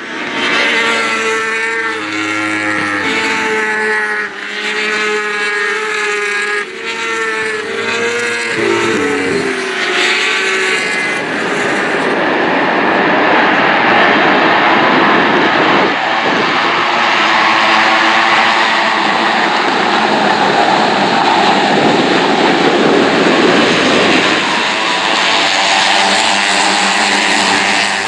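Racing motorcycle engines at high revs on track, the pitch climbing and stepping through several gear changes for the first ten seconds or so. The sound then turns into a dense, steady rush of engine noise.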